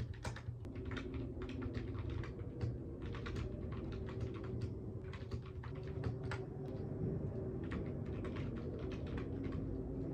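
Typing on a computer keyboard: irregular key clicks in quick runs, over a faint steady low hum.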